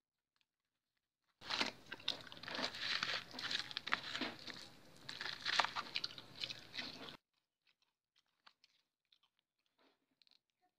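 Close-up crunchy chewing and biting of crisp breaded fried chicken, a dense run of crackles for about six seconds that starts and stops abruptly, followed by a few faint clicks.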